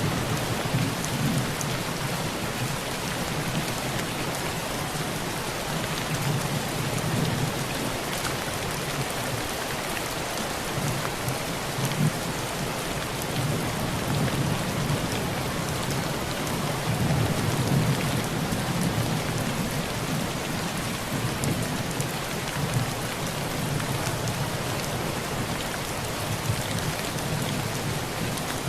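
Heavy rain pattering steadily on a tin roof, with scattered sharp drop ticks. Low rumbles of thunder swell and fade several times.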